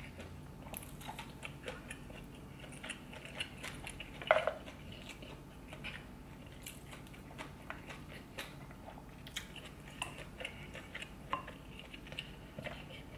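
Close-miked wet chewing and biting of buttery seafood boil, with irregular small smacks and clicks of the mouth and one louder, sharper bite or click about four seconds in.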